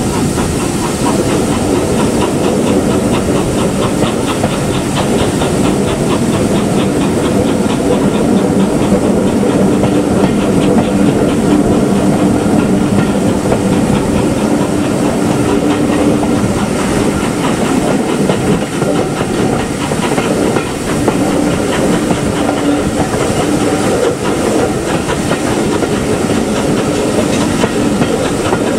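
Steam-hauled train running steadily along the line, with a hiss of steam and a regular clicking of the wheels over the rail joints through the middle part.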